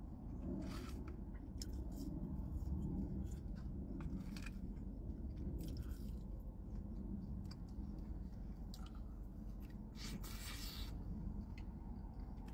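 Close mouth sounds of chewing a sandwich, with many short wet clicks and smacks, over a steady low hum. About ten seconds in comes a brief rustle, as the sandwich is handled over its paper wrapping.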